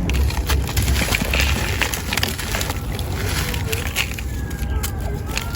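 Dry, gritty sand-cement chunks being crumbled by hand, giving irregular crunches and crackles, over a steady low rumble.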